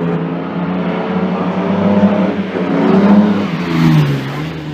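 Classic racing car's engine accelerating hard up the course, its pitch climbing with the revs and peaking about three seconds in, then falling near the end.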